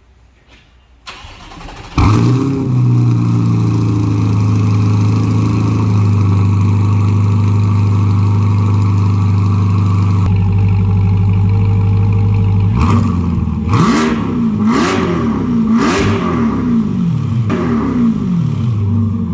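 C8 Corvette V8 through an aftermarket center-exit exhaust starting up about two seconds in and settling into a steady idle. Near the end, a series of about four quick revs rising and falling, then back to idle.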